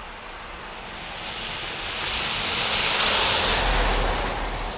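A vehicle passing on a slushy, snow-covered road: a hiss of tyres through slush that swells to a peak about three seconds in and then fades, with a low rumble near the peak.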